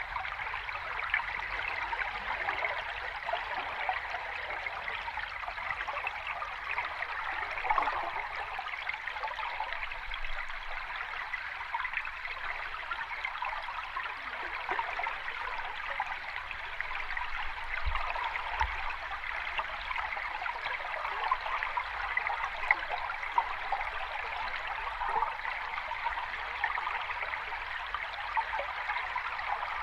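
Running water of a small cascade, a steady, unbroken rush with no deep rumble.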